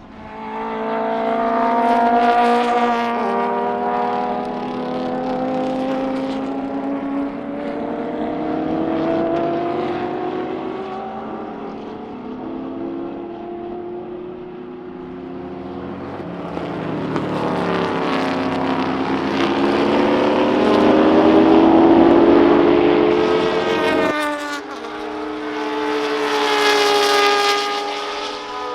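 Racing sports car engines at full speed as cars pass, the pitch climbing and dropping through gear changes and swelling loudest as each car goes by. Near the end the sound switches abruptly to another car passing.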